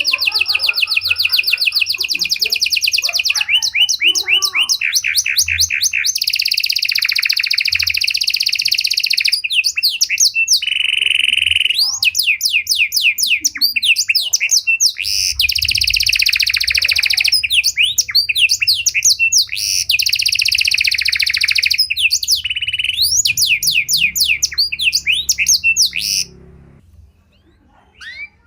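Panda (pied) domestic canary singing a long, varied song of fast trills, rolls and sweeping whistled notes, with one held note partway through. The song stops abruptly about two seconds before the end, followed by one short note.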